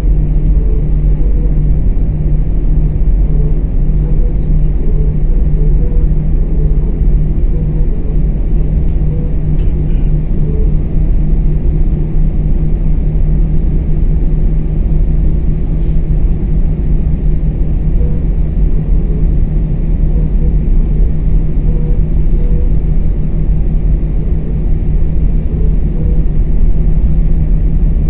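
Airliner engines heard from inside the passenger cabin: a loud, steady low rumble with a constant hum.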